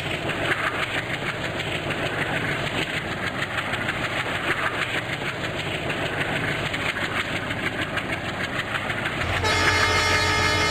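A train running on the track with a steady rhythmic rail clatter. About nine seconds in, a train horn starts with a sustained multi-tone blast.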